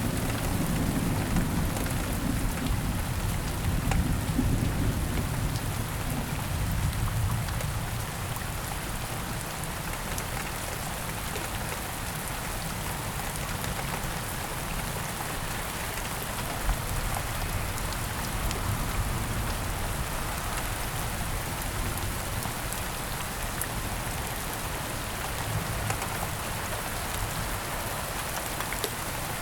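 Heavy rain falling steadily, with a low rumble of thunder in the first several seconds that fades away.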